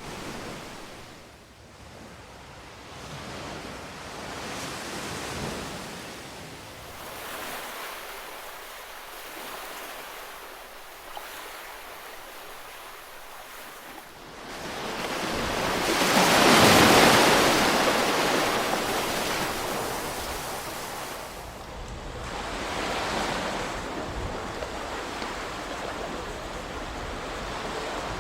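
Ocean surf: waves breaking and washing in slow swells, the biggest one crashing a little past the middle.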